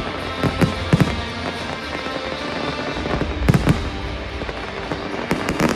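Aerial firework shells bursting: sharp bangs in three clusters, about half a second in, around three and a half seconds, and near the end, over steady music.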